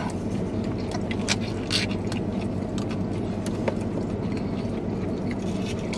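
Chewing and biting into a crisp egg roll, with small clicks of a plastic fork against a takeout bowl, over a steady low hum inside a car cabin.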